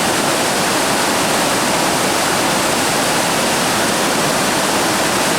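Loud, steady rushing roar of whitewater at Tower Rapid on the Russell Fork, even throughout with no distinct events.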